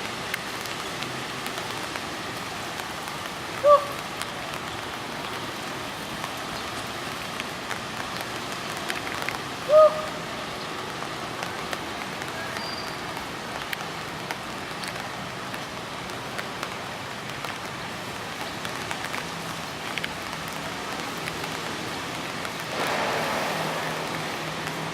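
A bird gives two short, loud single call notes, about six seconds apart, over a steady hiss like falling rain that swells briefly near the end.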